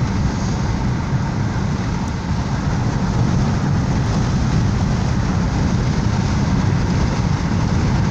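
Steady rumble of a car driving, heard from inside the cabin: engine and road noise, strongest in the low end with a fainter tyre hiss above.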